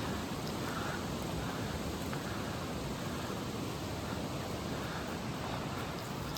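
Creek water rushing, a steady even hiss.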